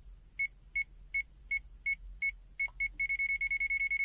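The ZOYI ZT-Y2 multimeter's buzzer sounding its non-contact voltage alert: high-pitched beeps about two to three a second. About three seconds in they speed up into rapid, near-continuous beeping as the meter senses a stronger field from the live wire.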